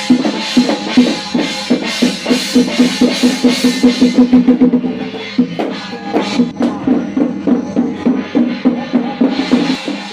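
Percussion music: fast, even drumming of about five beats a second, with a steady pitched tone held underneath.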